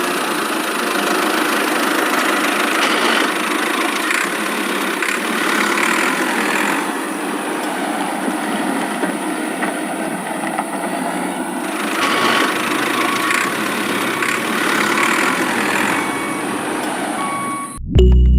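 Small engine running steadily, a noisy mechanical drone with no clear pitch, cut off abruptly near the end by music.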